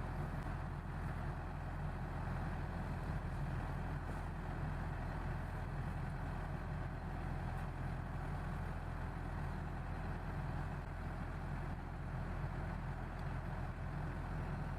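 Rice harvester's engine running steadily, a constant low drone with a rattling mechanical hum above it.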